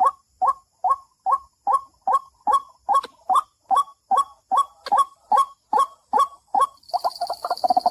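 White-breasted waterhen (dahuk) calling, one harsh call repeated evenly about two and a half times a second; near the end the calls come faster and run together, with a hiss over them.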